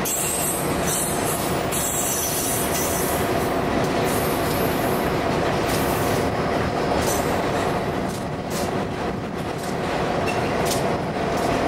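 Freight train's tank cars and autorack cars rolling past close by, the wheels clattering on the rails with a steady rumble and faint ringing squeal.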